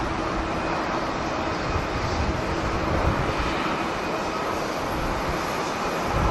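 Steady rushing jet airliner engine noise, with wind gusting on the microphone and causing a low, uneven rumble.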